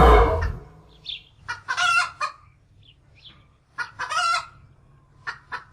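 Chickens clucking: a string of short calls, with two longer ones about two and four seconds in. A loud noise dies away in the first half second.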